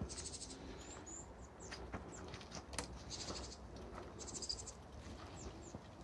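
Faint, high-pitched bird calls: three short buzzy trills and a few thin falling whistles. Under them, light crackling clicks of dry leaves and twigs as a mountain bike is handled through leaf litter.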